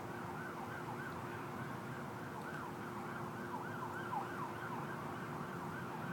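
Several emergency-vehicle sirens in yelp mode sounding at once, fast rising-and-falling wails overlapping one another, over a steady low hum.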